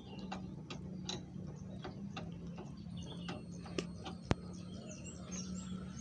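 Irregular light clicks and taps, with one sharper knock about four seconds in, over a steady low hum; faint chirps sound now and then.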